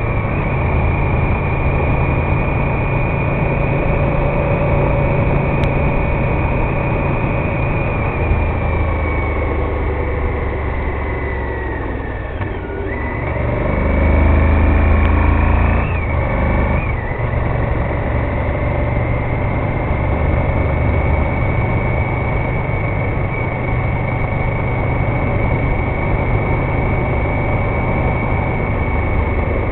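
Honda VTR1000F Firestorm's 996 cc V-twin engine running under way. Its pitch falls as the bike slows about a third of the way in, rises again and gets louder around the middle, drops sharply at a gear change just past halfway, then holds steady at cruising speed.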